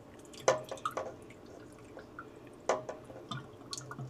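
Water-and-alcohol mixture draining down a Harvest Right freeze dryer's chamber drain hole and tube, heard as a few irregular drips and small splashes.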